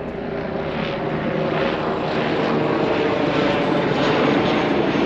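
Aircraft engine drone passing overhead, steady and growing louder.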